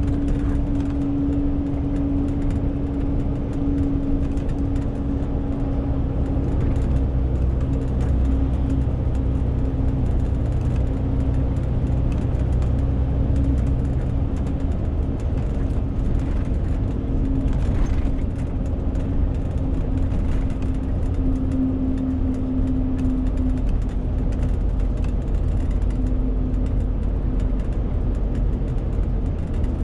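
Renault T520 truck's six-cylinder diesel running steadily with the truck loaded to 40 tonnes; the deep engine note weakens about halfway through.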